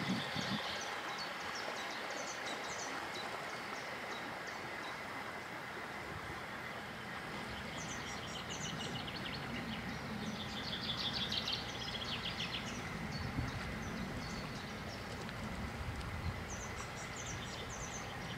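Small birds singing in short, rapid high trills, several times, over a steady outdoor background hiss and low rumble.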